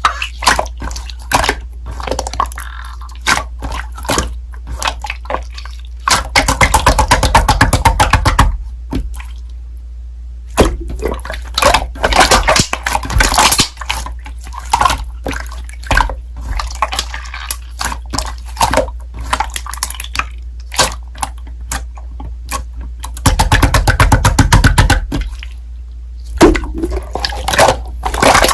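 Slime being squished and poked by hand, making wet clicks and pops. There are two longer spells of rapid crackling popping, one about a fifth of the way in and one past three quarters.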